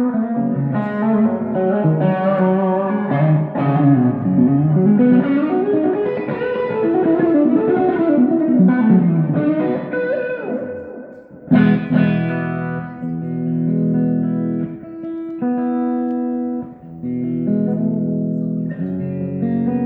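Electric guitar played on its own: single-note lead lines with bent notes for about ten seconds, a brief gap, then chords struck and left to ring.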